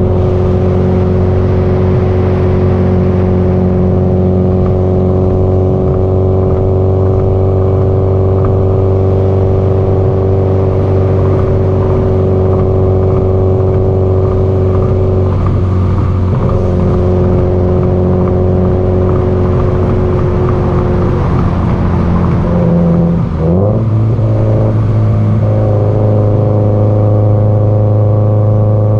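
Subaru Impreza GDB-E's turbocharged flat-four with an aftermarket muffler, running at steady revs while driving. About 23 seconds in, the engine note steps up to a higher pitch and holds there.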